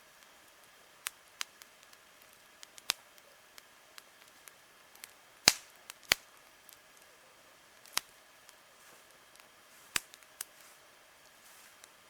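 Wood fire crackling: irregular sharp pops and snaps, the loudest two about halfway through, over a faint steady hiss.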